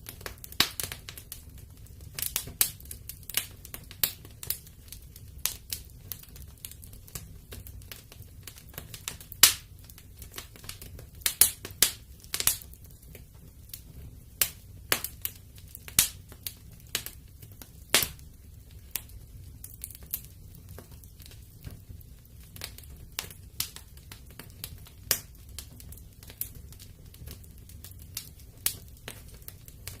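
Wood fire crackling in a fireplace: irregular sharp pops and snaps, louder ones clustered in the middle, over a low steady rumble.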